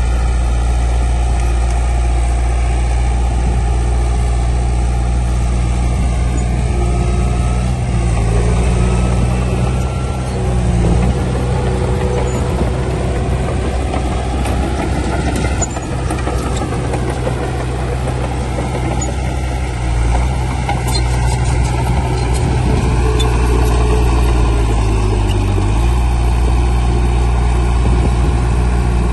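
Heavy diesel engine of an earthmoving machine running steadily, its engine note shifting a couple of times as the load or throttle changes.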